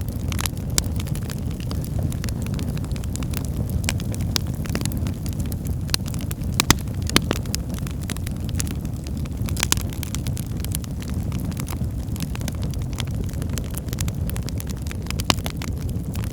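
Wood fire burning in a fireplace: a steady low roar of flames with irregular crackles and pops from the burning firewood, two of them sharper about seven seconds in.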